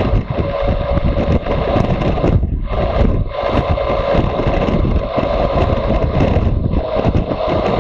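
Motorcycle engine running under way, mixed with heavy wind rush over the microphone.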